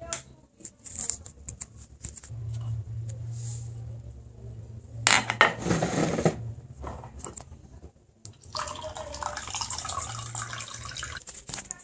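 Kitchen handling sounds: a few clicks at first, then a loud brief rush of water about five seconds in, and running water with dishes clinking near the end, over a low steady hum.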